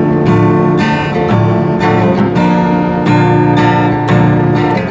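Acoustic guitar strummed in steady chords, about two strokes a second, with the chord changing a few times.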